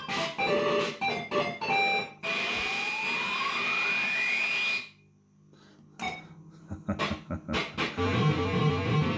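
Gottlieb System 80 pinball machine's sound board playing electronic effects: quick beeping tones, then a steady tone with a rising sweep about two seconds in. This cuts off to near silence around five seconds in, a few clicks follow, and a repeating electronic tune starts near the end.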